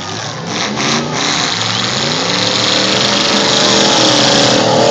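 Demolition derby car engines revving hard, with a few brief knocks in the first second; an engine's pitch climbs as it accelerates and then holds steady at high revs.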